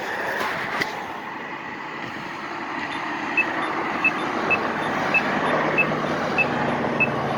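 Road traffic going by, with a low engine hum building near the end. From about three seconds in, a pedestrian crossing signal beeps a little under twice a second, a sign that the walk phase is on.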